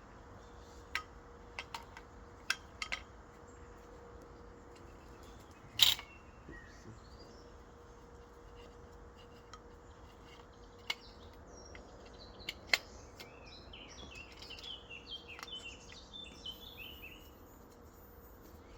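Scattered sharp clicks and knocks, the loudest about six seconds in, over a faint steady hum; a run of bird chirps comes in toward the end.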